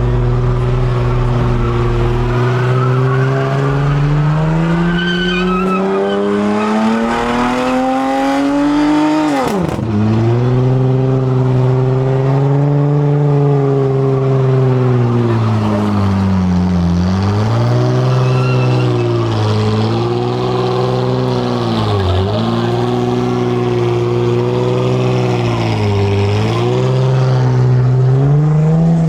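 Car engine revved hard and held at high revs, its pitch slowly climbing, then dropping sharply about ten seconds in and dipping briefly several more times, with tyre squeal from a burnout.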